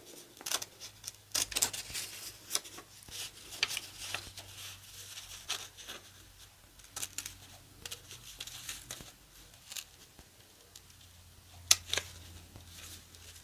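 Small scissors snipping and paper being handled, a scatter of soft, irregular clicks and rustles, with one sharper click a little before the end.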